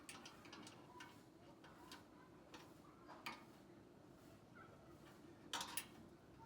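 Near silence: low room tone with a handful of faint, scattered clicks and ticks, two in quick succession near the end.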